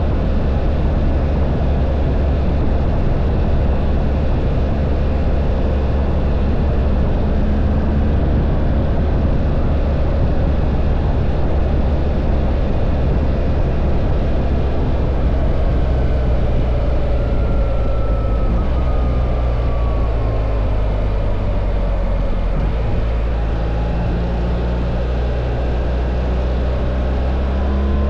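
BMW R1300 GS boxer-twin engine running at a steady cruise, under heavy wind noise on the microphone. The engine note drops a little and eases off past two-thirds through.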